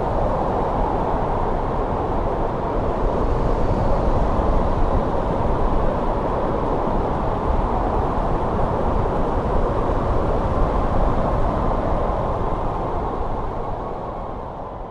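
Steady winter wind, an even rushing noise with no gusts or breaks, beginning to fade out near the end.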